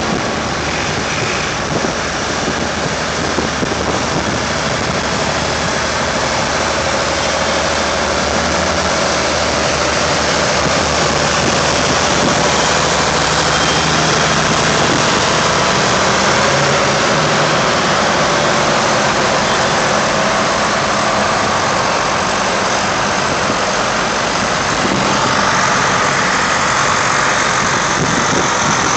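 Vintage tractor engines running steadily, idling and ticking over as the tractors move off.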